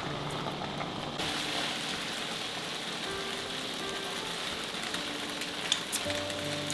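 Flat rice noodles sizzling steadily as they stir-fry in a wok, with a couple of spatula clicks near the end. Soft background music with sustained notes plays underneath.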